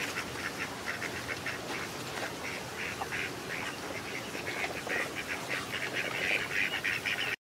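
Duck calling: a fast run of short, repeated calls, several a second, that stops abruptly near the end.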